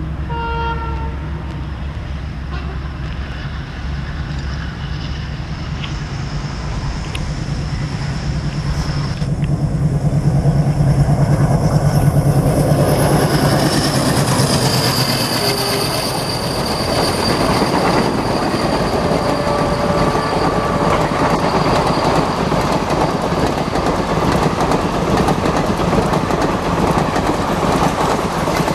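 A WDG3A diesel locomotive hauling an express train approaches and passes at speed, with a brief horn note right at the start. Its engine drone builds to the loudest point about ten to thirteen seconds in, then gives way to the steady clatter of the passenger coaches' wheels over the rails as the long train runs past.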